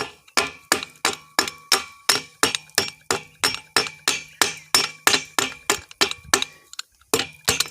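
Hammer striking a steel disc in quick, even blows, about three or four a second, each leaving a short metallic ring; the blows pause briefly near the end and then resume.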